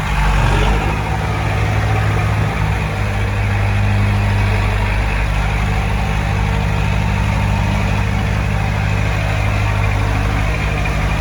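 Heavy diesel engine of earthmoving equipment running steadily; its pitch shifts a little in the first few seconds, then holds even.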